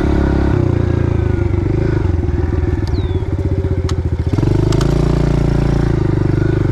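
Pit bike's small single-cylinder engine running during a ride. It drops off the throttle about half a second in and chugs at low revs with each firing pulse audible, then picks up again a little past the middle. A few sharp clicks are heard in between.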